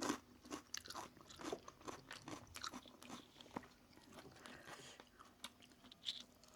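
A person biting and chewing crunchy food, with a run of short, crisp crunches every fraction of a second.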